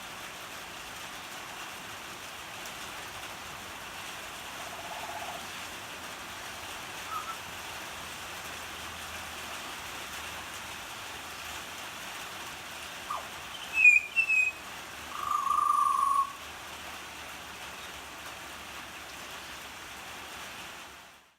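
Butcherbird giving a few scattered whistled notes over a steady hiss of falling rain: a faint low note about five seconds in, then louder notes about two-thirds of the way through, the last one held for most of a second.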